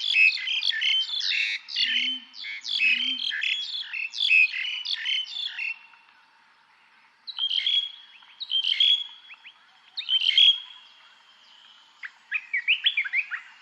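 Songbirds singing: a dense run of rapid chirping for about six seconds, then three separate song phrases, each ending on a held whistled note, then a short burst of chirping near the end. A couple of low calls come in twice about two and three seconds in.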